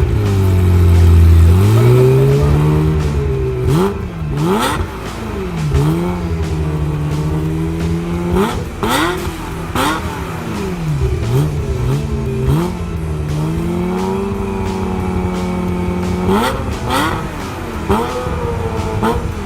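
Ferrari F355 GTS F1's V8 being revved repeatedly: quick blips that rise and fall in pitch, with stretches held at steady raised revs between them.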